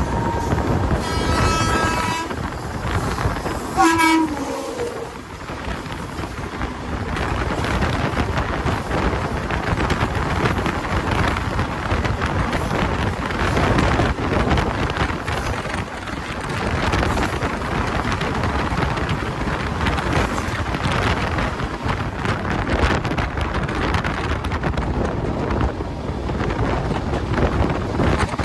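Express train sounding its horn, the horn's pitch dropping steeply about four seconds in as the locomotive passes. This is followed by the long steady rumble of the train running by.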